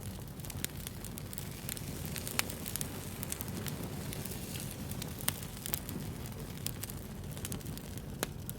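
Wood fire burning, a steady low rush of flame with frequent crackles and pops; sharper pops stand out about two and a half seconds in, around five seconds in, and near the end.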